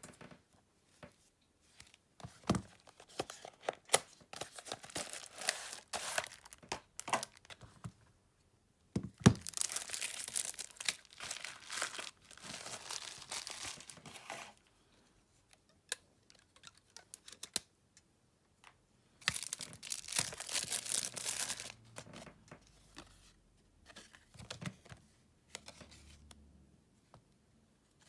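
Packaging handled at close range: crinkling and tearing sounds in several long spells, with light clicks and knocks between them.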